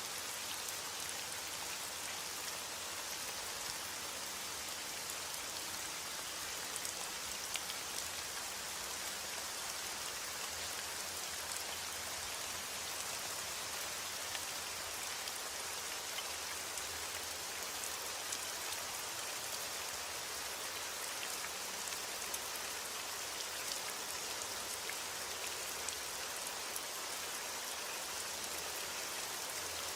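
Steady heavy rain falling, an even hiss with many small drop ticks on a hard surface.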